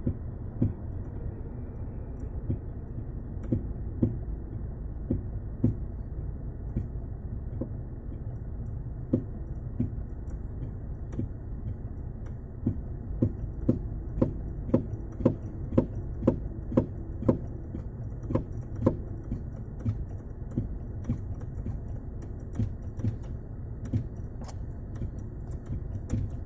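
Brake vacuum booster knocking: repeated sharp knocks, about one a second, coming faster and louder in the middle, over a steady low rumble.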